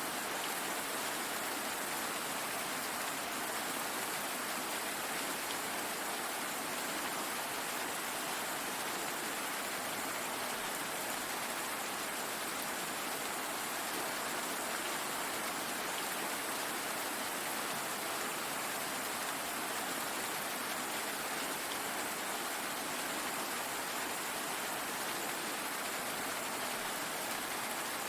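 Steady rain falling, a continuous even hiss with no separate drops or breaks.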